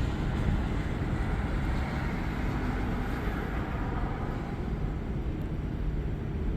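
Thunderstorm: a low, rolling rumble of thunder that slowly eases, over a steady noisy background.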